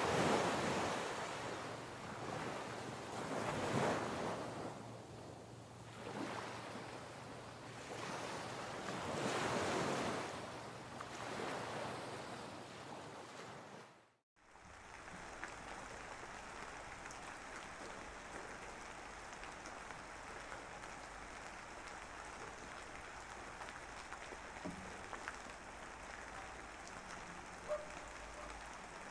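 Background ambience of waves washing in, a surge of rushing noise every two to three seconds, fading out about halfway through. After that comes a steady hiss with faint scattered ticks.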